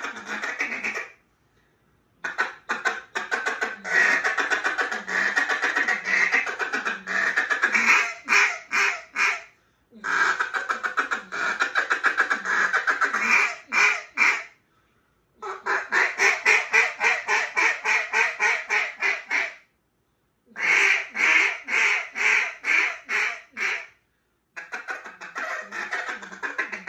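A hand-blown duck call sounding runs of rapid quacks, about five sequences of a few seconds each separated by short breaths.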